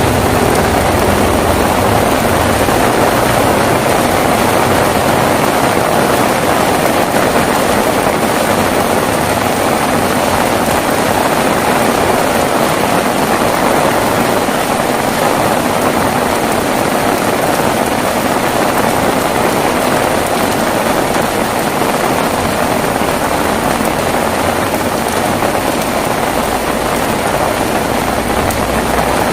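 Heavy rain falling steadily, a dense unbroken hiss. A low rumble underneath fades away over the first several seconds.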